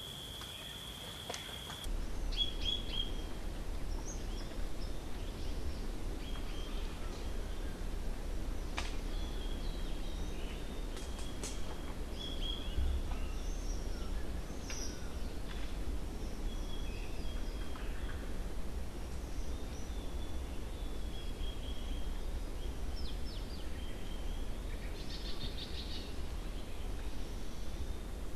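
Outdoor ambience: small birds chirping now and then over a steady low rumble, with a few sharp clicks. For the first two seconds a steady high-pitched trill plays, then cuts off suddenly as the rumble starts.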